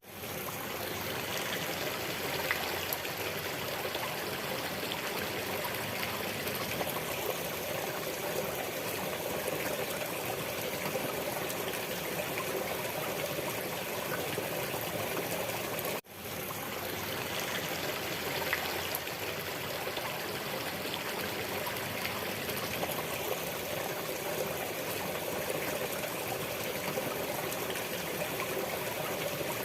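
Steady flowing water, like a stream trickling. About halfway through it cuts out for an instant and fades straight back in.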